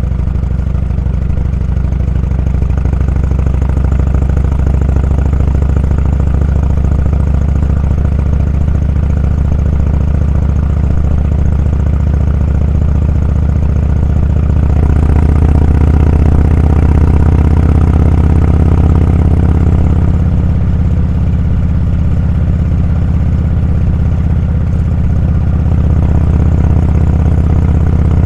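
Motorcycle engine running with a steady low hum, getting louder for several seconds about halfway through, then settling back.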